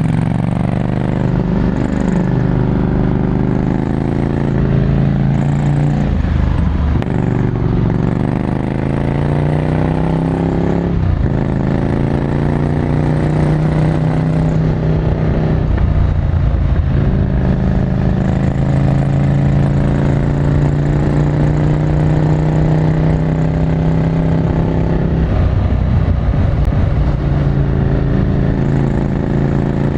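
Ducati Scrambler Desert Sled's 803 cc air-cooled L-twin, breathing through a full Termignoni exhaust, pulling up through the gears. The pitch climbs steadily and then drops sharply at each shift, about four times.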